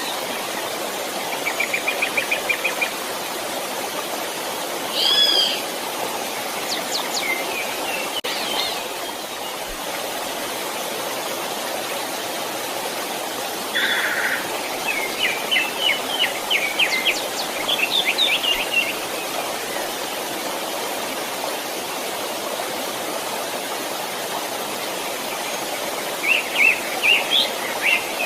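Steady rushing of a flowing stream with birds calling over it: a short rapid trill about two seconds in, a looping call around five seconds, and runs of quick rising chirps in the middle and near the end.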